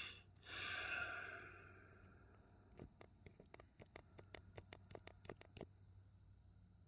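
Faint breath sound, then a quick, irregular run of about a dozen faint sharp clicks lasting a few seconds, over a steady high hiss.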